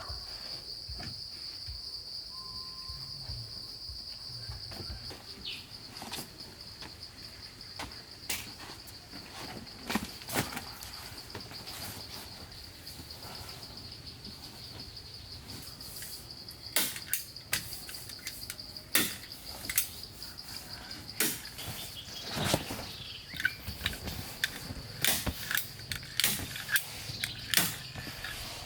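A steady high-pitched drone of insects, with scattered sharp knocks and clicks of work by hand that come thick and fast in the second half.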